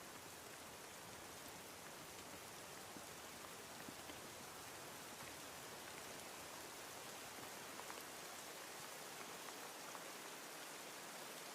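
Steady rain falling, a soft even hiss with scattered drop ticks.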